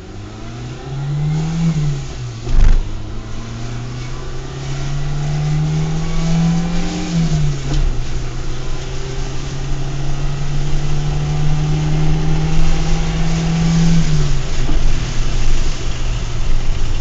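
Maruti Zen's engine accelerating hard through the gears. The pitch climbs and drops at a gear change twice, then holds in a higher gear and creeps up slowly before dropping again near the end. Road and wind noise build with speed, and one sharp thump sounds early on, about two and a half seconds in.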